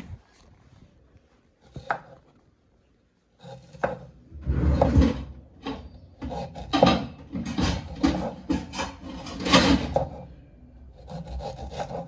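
A single sharp knock about two seconds in, then, after a brief quiet, repeated rough scraping and rubbing strokes at an uneven pace of about two a second, from kitchen work during food preparation.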